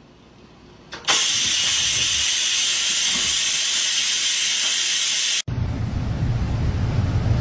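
A loud, steady hiss that starts suddenly about a second in and runs for about four seconds before cutting off abruptly, followed by a low steady hum.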